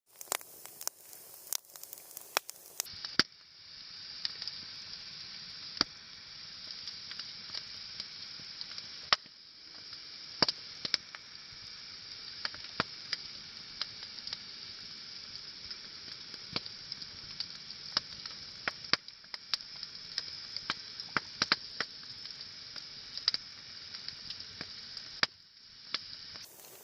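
Wood bonfire crackling: sharp, irregular pops and snaps over a steady hiss.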